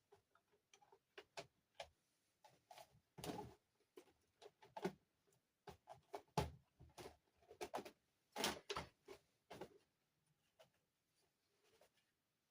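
Quiet, irregular clicks, taps and short scrapes from toy dollhouse castle pieces being handled and set down, with a few longer rustling scrapes.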